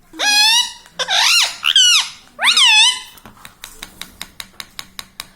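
Pet parrot giving three loud, high calls that swoop up and down in pitch, the second one the longest; then a quick run of short clicks, about six a second.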